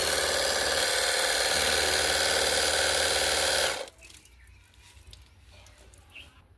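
A small electric motor running with a steady buzzing rattle, which cuts off abruptly about four seconds in.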